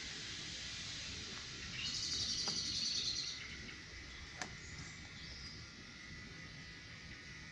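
A small bird singing a fast trill of about a second and a half, starting about two seconds in, then fainter chirps, over a low steady outdoor background. A single sharp click sounds near the middle.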